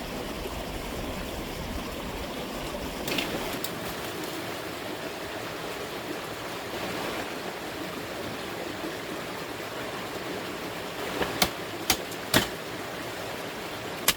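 Steady rush of a running stream, with a few sharp knocks: two about three seconds in and a quick run of four louder ones near the end.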